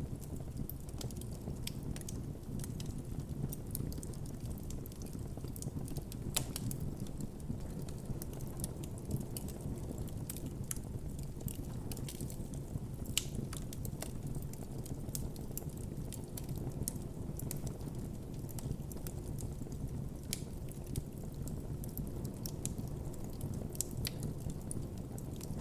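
Campfire burning with a steady low rumble of flames and irregular crackles and snaps of burning wood, with a few louder pops.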